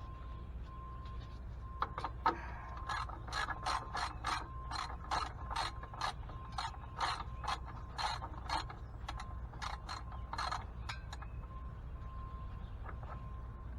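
Ratchet with a 13 mm socket clicking in a series of quick strokes as the engine oil drain plug is turned out. The clicks come about two or three a second for most of the stretch, then stop.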